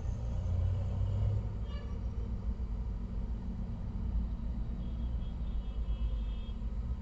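Steady low rumble of tractor engines running.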